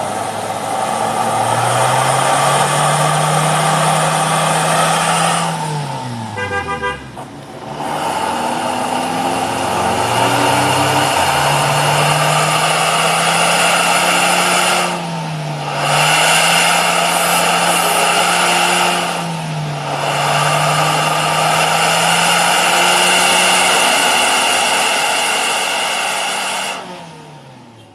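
A vehicle engine revved through an aftermarket racing exhaust, with a strong jet-like whooshing hiss over the engine note. The revs climb and hold high, fall away about six seconds in, climb and hold again with two brief dips, then drop off near the end.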